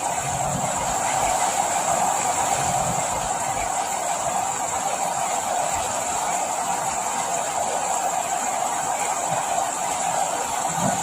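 Steady rain, an even hiss with an occasional soft low thud.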